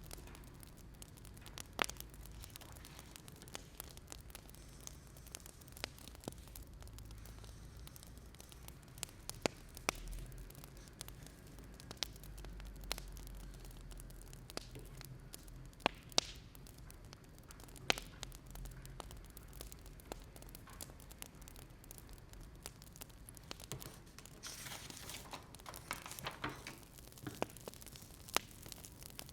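Faint wood fire crackling: irregular sharp pops and snaps over a low, steady rumble, with a brief rustling flare about three-quarters of the way through.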